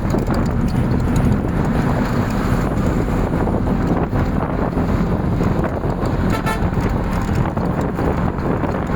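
Steady wind rumble on the microphone, with a short horn toot about six seconds in.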